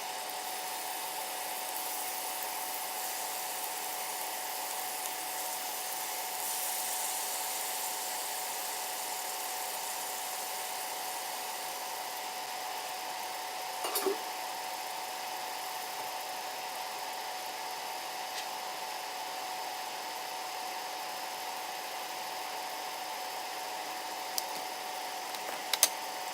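Chopped chicken thighs sizzling in melted butter in a frying pan, a steady hiss with a constant high hum under it. There is a short clatter of a utensil against the pan about halfway through and again near the end.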